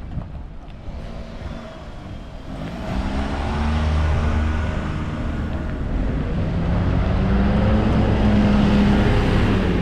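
Route bus's diesel engine pulling away, its note rising twice as it gathers speed, with road noise underneath.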